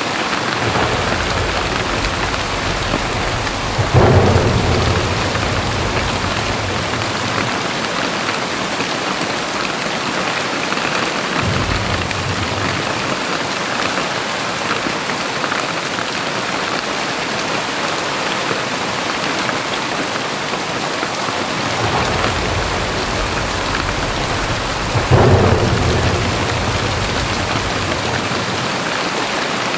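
Very heavy rain pouring steadily. Thunder cracks twice, about four seconds in and near twenty-five seconds in, each followed by a low rumble that rolls on for a few seconds, with fainter rumbling in between.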